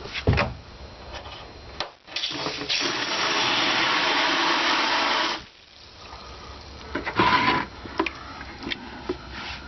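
Water heater drain valve opened, with water gushing out for about three seconds before it is shut off sharply, and a second, shorter gush a little later. The tank is being drained briefly to check for rust and sediment in the bottom.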